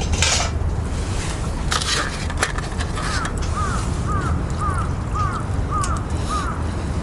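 A bird calling a run of about seven short, even notes, roughly two a second, over a steady low rumble. Before it, a few sharp clicks and clatters of cookware being handled.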